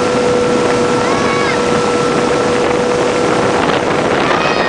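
Motorboat running steadily under way, with wind rushing over the microphone and a steady droning tone. Two brief high cries that rise and fall come about a second in and near the end.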